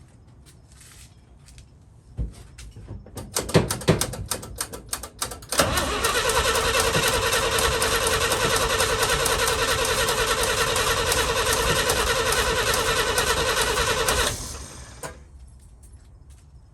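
A 1966 International Harvester pickup's BG 241 inline-six being cranked by its starter for about eight seconds: a steady whirring with a rapid beat that stops abruptly. The engine turns over but does not fire, which the owner takes to mean it is getting no ignition. A few clicks and knocks come before the cranking.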